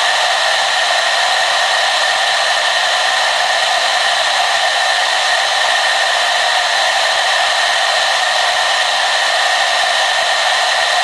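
Hair dryer running steadily: a constant rush of blown air with a steady motor whine, no change in speed.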